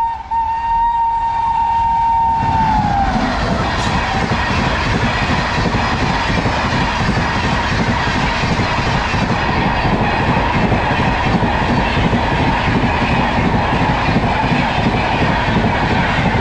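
Express train horn held on one steady note, dropping in pitch and fading about three seconds in as the locomotive passes. Then the loud rumble and clickety-clack of the coaches going by at speed.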